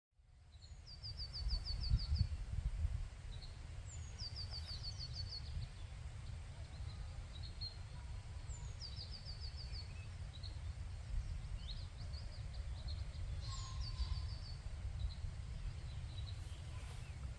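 A songbird singing a short phrase of rapid repeated high notes four times, about every four seconds, with scattered single chirps between, over a steady low rumble.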